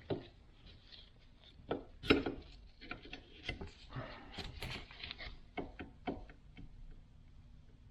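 Irregular clicks, taps and light knocks of metal steering-gearbox parts being handled, as shims are swapped and the box is refitted to adjust gear play.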